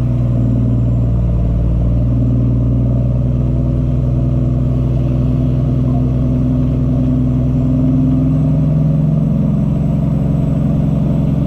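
Cummins ISX diesel engine of a Peterbilt 379 tractor running steadily while the truck creeps along at low speed, with a slight rise in engine pitch around the middle of the stretch.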